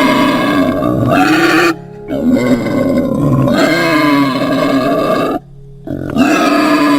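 An animal's long, drawn-out grunting calls in three stretches, broken by short pauses about two and five and a half seconds in.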